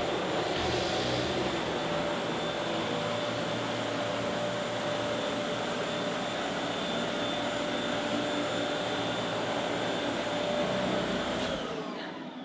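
Vacuum cleaner motor running steadily while vacuuming carpet. Near the end it is switched off and winds down with a falling whine.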